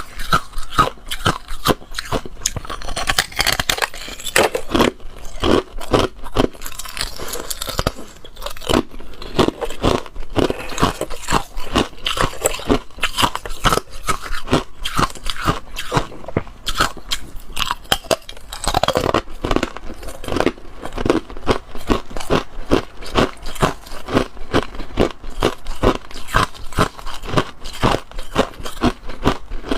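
Ice being bitten and chewed, a dense, irregular run of sharp crunches throughout.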